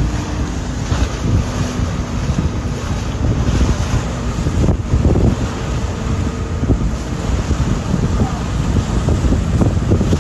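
Wind buffeting the microphone on the deck of a moving motorboat, a loud gusting rumble over the rush of water and a faint steady engine hum.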